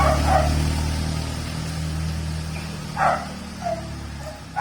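A dog barking in short yelps: a couple near the start, then more about three seconds in and at the end. Under the barks runs a steady low motor hum that fades out near the end.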